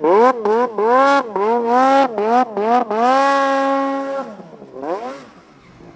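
Snowmobile engine revving in quick throttle blips, its pitch rising and falling several times, then held at high revs for about a second before dropping away and fading.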